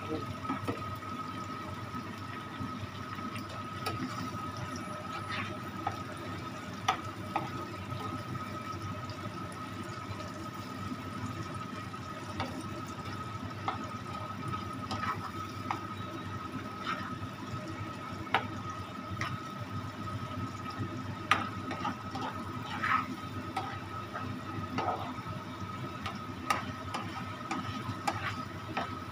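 Wet bean-and-herb paste frying in a steel pan: a steady watery sizzle, with scattered clicks of a spatula against the pan as it is stirred. A steady high tone runs underneath.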